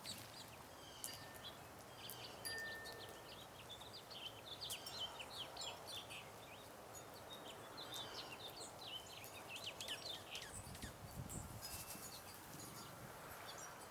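A flock of small songbirds chirping and twittering, many short overlapping calls in quick succession, with a low rumble passing briefly near the end.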